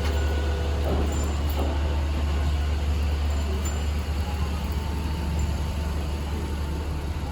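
City street ambience dominated by a steady low rumble, typical of road traffic.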